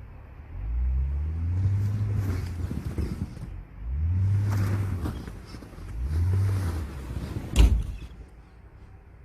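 Jeep Gladiator's engine revving three times in short bursts, each rising, holding and dropping back, as the truck tries to drive off a rock it is grounded on. A single sharp knock comes near the end.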